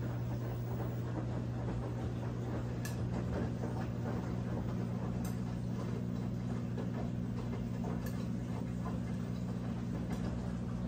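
Brastemp 17 kg top-load washing machine running mid-cycle: a steady hum over a noisy wash, with a faint tick every two to three seconds.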